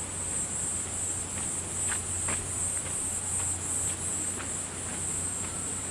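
Steady high-pitched insect trilling, slightly pulsing, with a few faint ticks mixed in.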